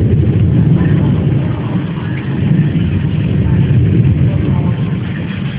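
Thunder rumbling low and steadily through a thunderstorm.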